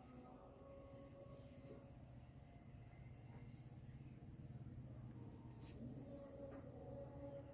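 Faint crickets trilling in an evening insect chorus, over a low background rumble.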